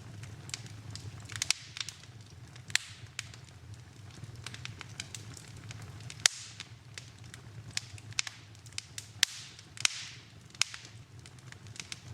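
Wood fire burning in a fireplace: irregular sharp crackles and pops over a low steady rumble, the loudest pop about six seconds in.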